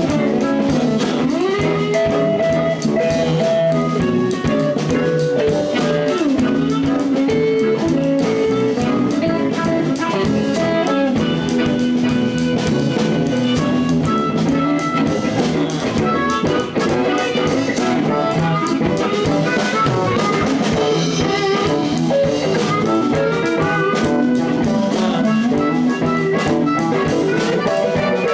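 A live blues band playing an instrumental passage: electric guitar, bass and drum kit, with a lead line that bends in pitch.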